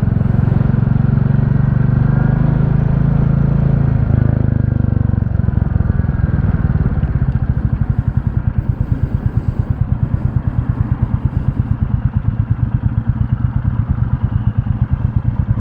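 Royal Enfield Classic 350's single-cylinder engine running at low speed. About five seconds in it settles to an idle with an even, regular thump.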